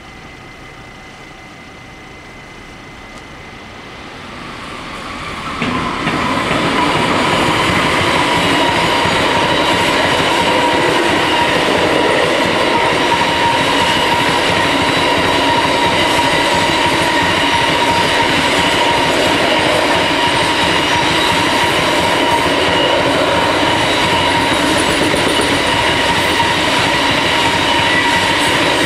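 DB freight train passing over a level crossing: its approach grows louder over the first few seconds, then wagons roll past in a long, steady rumble with clickety-clack from the wheels on the rail joints and steady high squealing tones from the wheels.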